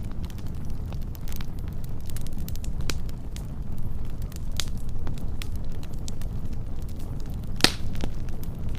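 Wood fire burning with a steady low rumble and scattered crackles, and one louder pop near the end.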